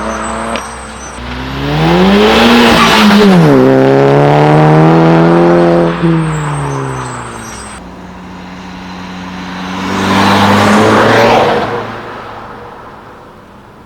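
A tuned car's engine and exhaust accelerating hard past: revs climb, drop sharply with an upshift about three seconds in, then hold loud before backing off. A second loud burst of engine noise swells and fades near the end.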